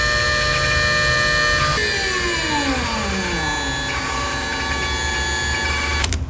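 A steady mechanical whine with several pitches at once. About two seconds in, part of it cuts off and a whine falls steadily in pitch, like a motor winding down.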